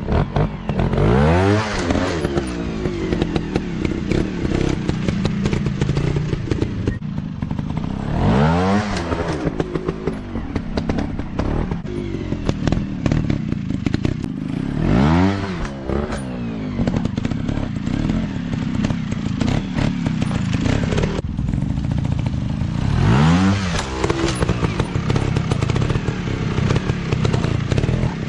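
Dirt bike engine running under load, revving up and dropping back four times as the rider opens and closes the throttle, with some clattering of the bike over rough ground.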